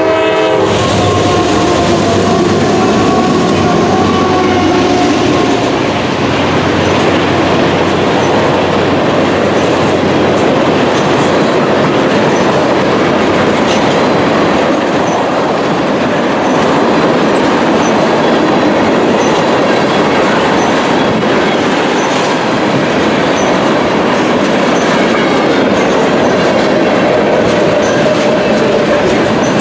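A CSX freight train rolls past close by at a grade crossing. Its two GE AC44CW diesel locomotives go by first, then a long string of tank cars and boxcars follows with a steady clickety-clack of wheels over the rail joints.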